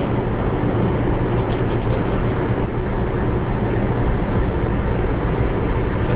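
Steady road and engine noise of a moving car, heard from inside the cabin, with a constant low drone.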